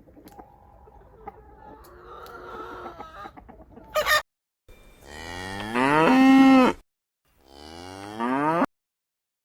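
Cow mooing twice: a long loud moo that rises in pitch and then holds, and a shorter one about a second later. A brief loud sound comes just before the first moo.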